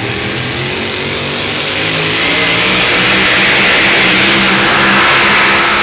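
Naturally aspirated, fuel-injected pulling truck engine of about 650 cubic inches at full throttle under the load of the sled. It grows louder about two seconds in.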